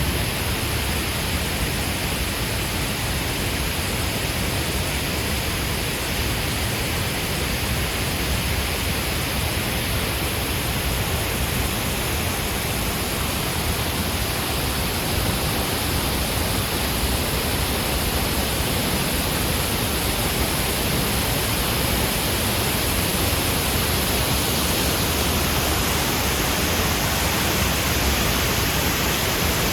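Artificial waterfall pouring down a high rock face: a loud, steady rush of falling water.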